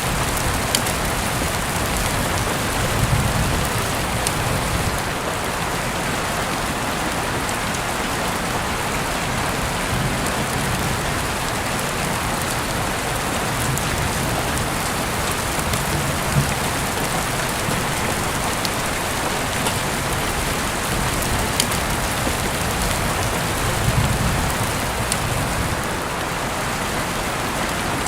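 Steady heavy rain, with scattered sharp drip ticks and a few soft low swells of rumble.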